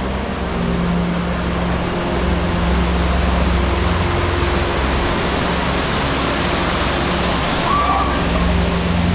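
Nojoqui Falls waterfall: a steady, loud rush of falling water.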